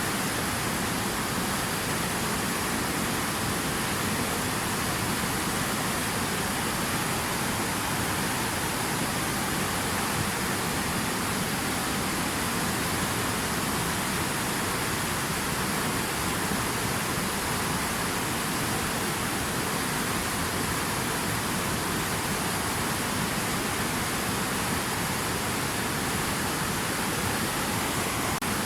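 Steady, unbroken rush of falling or running water, an even hiss with no distinct drips or splashes.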